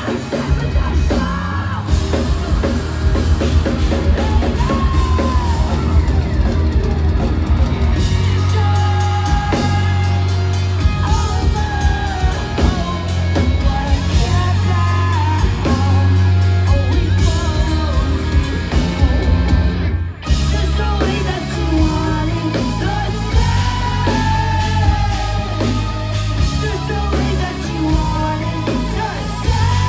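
Post-hardcore band playing live: drums, heavy bass and guitars under sung vocals, captured on a phone. The band stops together for a moment about twenty seconds in, then comes back in.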